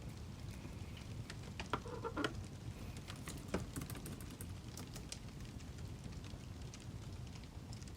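Wood fire crackling: a steady low rumble with scattered pops and snaps, and a louder cluster of snaps about two seconds in.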